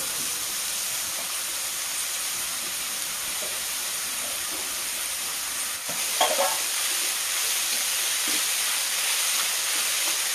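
Grated bottle gourd sizzling steadily as it fries in hot ghee in a metal kadhai, stirred with a metal spatula.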